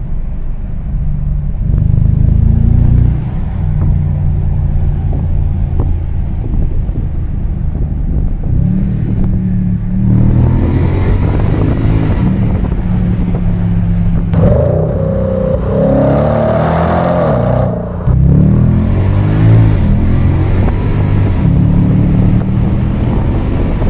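Infiniti FX50's 5.0-litre V8 heard from inside the cabin while driving, mostly a low hum, its pitch climbing and falling several times from about eight seconds in as it accelerates. The intake is more audible than the exhaust, whose new flex pipes no longer leak.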